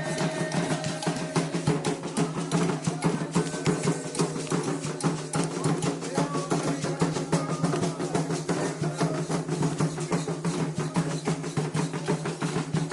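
Candomblé ritual drumming: atabaque hand drums played in a dense, continuous rhythm with struck percussion keeping time.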